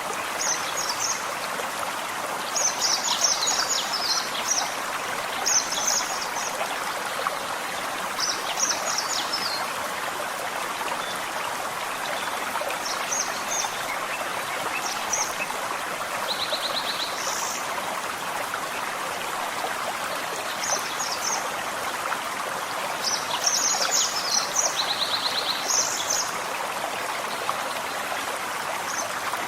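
Forest stream running steadily, with small birds singing short, high chirping phrases on and off over it, including two quick trills.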